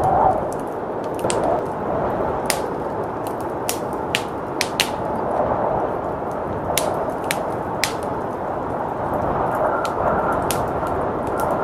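Wood fire crackling with irregular sharp pops, about a dozen, over a steady low rush of blizzard wind.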